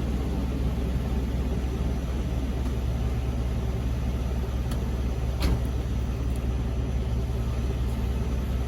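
Car engine idling steadily while it warms up after a cold start, with one sharp click about five and a half seconds in.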